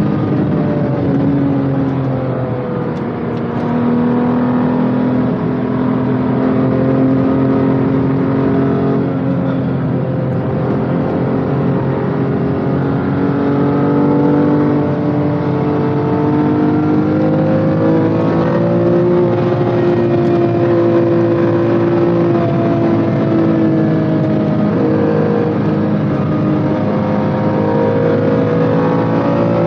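BMW M2 Competition's twin-turbo inline-six heard from inside the cabin under steady load at speed, its pitch drifting gently up and down with the throttle, over a constant road-noise hiss.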